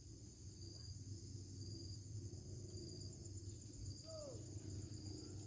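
Faint steady high-pitched drone of insects, crickets or cicadas. There is a short falling call about four seconds in.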